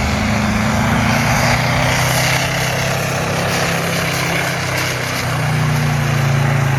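Pulling tractor's engine running hard under full load, a loud steady drone whose pitch steps up about five seconds in.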